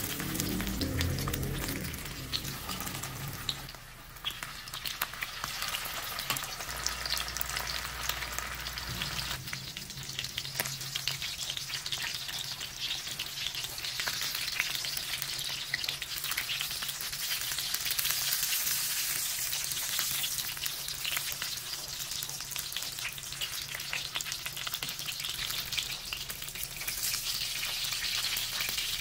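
Pork kikiam rolls wrapped in bean curd skin shallow-frying in hot oil in a pan: a steady sizzle and crackle, with a brief lull about four seconds in.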